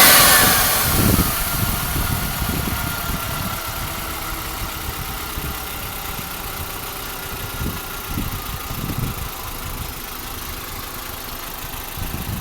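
2003 Volkswagen Jetta 2.0L engine idling after a cold start. A loud hissing whine winds down and stops in the first second or two, leaving a quieter steady idle. This is typical of the secondary air injection pump shutting off at the end of its cold-start run.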